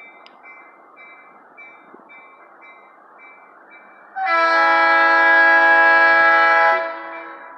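Diesel locomotive air horn sounding one long blast of several notes for a level crossing, starting a little after the middle and cut off about two and a half seconds later. A crossing-signal bell rings steadily about twice a second before and after the horn.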